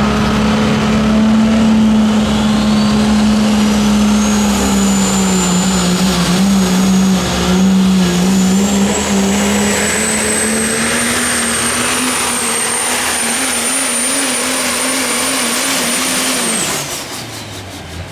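Super stock diesel pulling truck's engine running flat out under load, with a high turbocharger whistle that climbs over the first few seconds and then holds. Near the end the throttle comes off: the whistle falls and the engine drops away.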